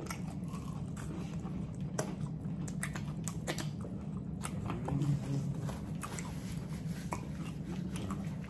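Close-up chewing of crispy fried chicken livers: scattered crunches and wet mouth clicks at an irregular pace, over a steady low hum.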